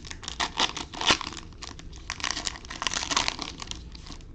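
Trading card pack wrapper being torn open and crinkled by hand, in two spells of crackling.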